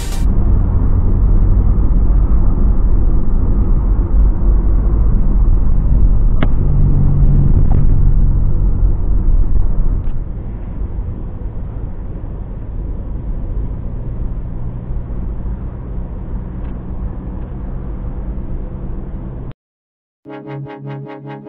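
Road and engine noise inside a moving car's cabin: a steady low rumble that drops in level about halfway through. It cuts off near the end, and electronic music starts.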